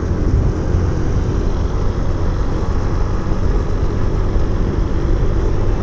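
Suzuki Intruder 125's single-cylinder 125 cc engine running steadily while the motorcycle is ridden along the road, mixed with wind rush on the microphone.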